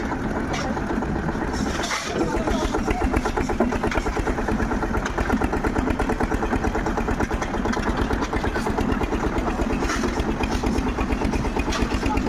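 Concrete mixer's engine running steadily under load, with a fast, even chugging beat that gets a little louder about two seconds in.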